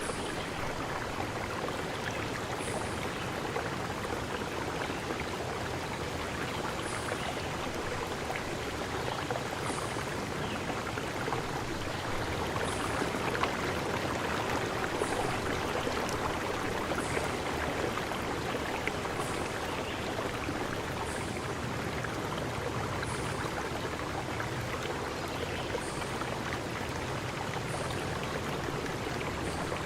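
Steady rushing of a flowing stream. A short, very high-pitched chirp recurs about every two seconds over the water.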